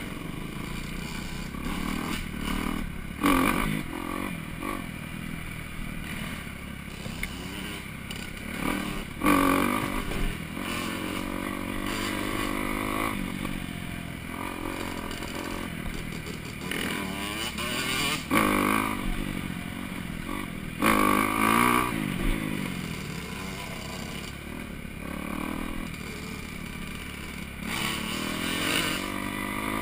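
Four-stroke dirt bike engine running through the gears, its pitch rising and falling, with sharper revs about 3, 9, 18, 21 and 29 seconds in.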